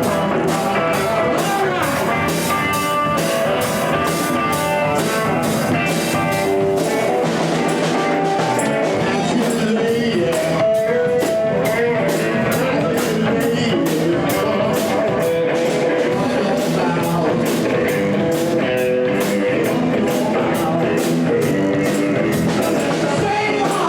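Live rock band playing electric guitar over drum kit with a steady beat, no vocals.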